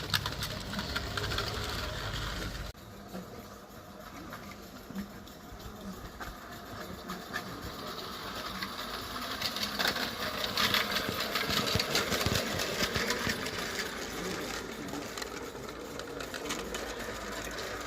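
Small garden-railway model locomotive running, a rapid mechanical clatter. A low rumble cuts off abruptly about three seconds in, and the clatter grows louder after about ten seconds.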